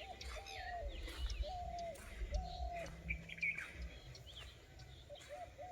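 Several wild birds calling in a forest: one repeats a short, slightly arched whistled note about once a second, pausing in the middle, while others give higher chirps and trills over it. Low thumping runs underneath.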